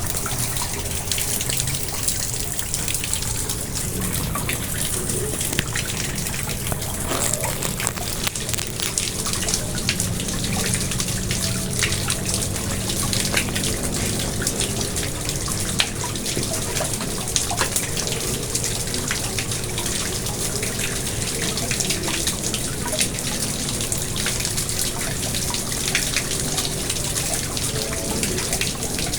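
Garden pond water splashing and trickling steadily, with a constant patter of small drips.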